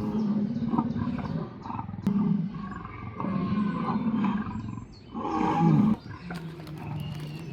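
Recorded deep roars and growls of a large animal played at an attraction exhibit, several long roars one after another, the loudest about five and a half seconds in.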